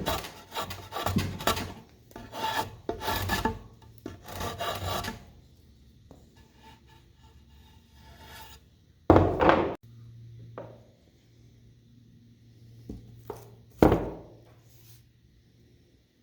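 A hand tool scraping across wood in repeated strokes: a quick series of about six strokes over the first five seconds, then two louder single strokes, one about nine seconds in and one near the end.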